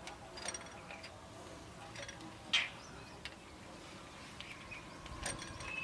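Scattered light clinks and taps of metal tools and engine parts being handled, with one louder short clatter about two and a half seconds in.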